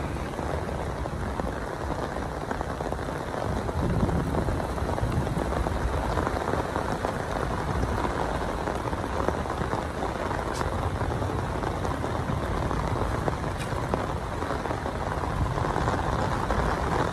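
Heavy rain falling steadily on a flooded road, a dense, even hiss with no break.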